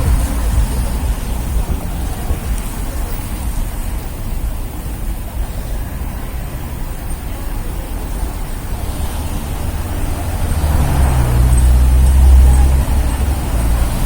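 City street traffic: a steady low rumble of passing vehicle engines. A heavier engine, such as a bus or truck, grows louder and passes about ten seconds in.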